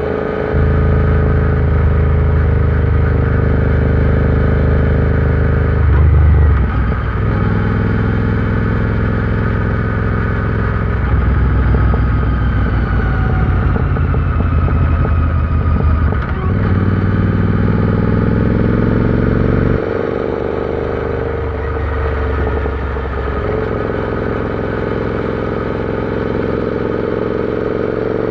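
Royal Enfield Interceptor 650's parallel-twin engine running under way, its note shifting several times as the throttle opens and closes. The pitch climbs slowly over the last several seconds.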